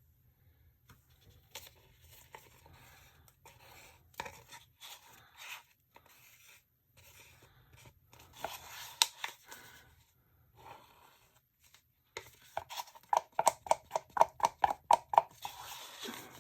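Stirring stick scraping and knocking against a cup as thick mixed resin is poured and scraped out into a mould. The noises are irregular at first, then about three quarters of the way through come a quick run of regular scrapes, about three a second.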